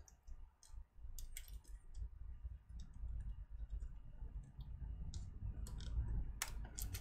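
Scattered small clicks and taps of hands working inside an opened ThinkPad laptop as a trackpad ribbon cable is unplugged and moved across, with a quick cluster of louder clicks near the end.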